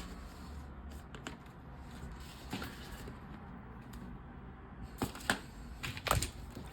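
Small plastic LEGO pieces clicking and rattling as they are handled and pressed together, with a few sharper clicks in the second half.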